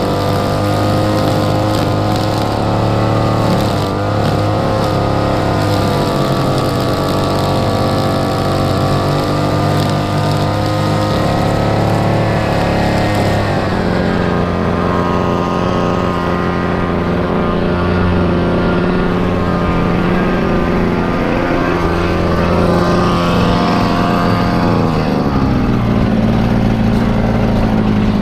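Lawn mower engine running steadily under load, its pitch shifting about halfway through and again near the end.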